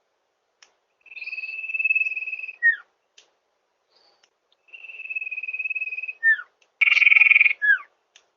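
Common iora (cipoh) giving its lure call: two long, steady, clear whistles, each ending in a short falling note, then near the end a harsher buzzy note that also ends in a falling note.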